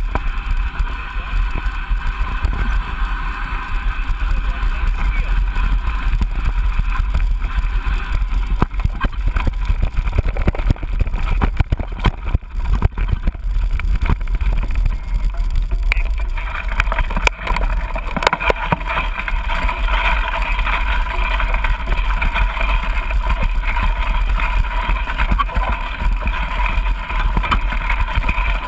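Mountain bike riding a dirt trail: wind rumbling on the action camera's microphone and tyre noise, with scattered rattles and knocks over bumps.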